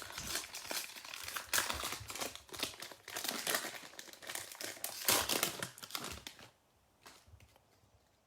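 Plastic-foil wrapper of a football trading-card pack crinkling as it is opened and pulled off, stopping about six and a half seconds in. A few faint handling sounds follow.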